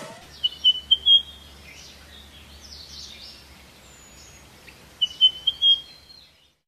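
Bird chirping: a quick phrase of four high chirps, then the same phrase again about four and a half seconds later, with fainter chirps between.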